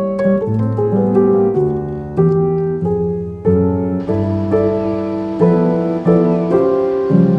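Background piano music: single notes and chords struck one after another, each left to ring and fade. A faint hiss comes in under it about four seconds in.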